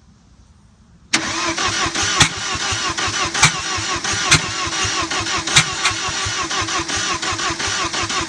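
Bobcat 732 skid steer's engine being cranked over by the starter in a start attempt, beginning abruptly about a second in and running steadily, with a sharper, louder stroke about once a second. The engine does not start, a no-start the owner traces to an ignition timing problem.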